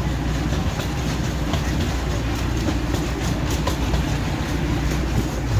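Park ride train running along the track, heard from aboard: a steady low rumble with faint, scattered clicks of the wheels on the rails.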